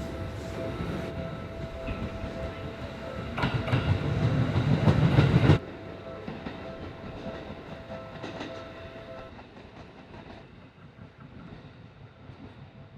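Seibu 101-series electric train running through the station, wheels clacking over rail joints, loudest between about three and a half and five and a half seconds in and then cutting off abruptly before a quieter fading rumble. Under it, a steady two-pitch tone from the level crossing warning rings and stops about nine seconds in.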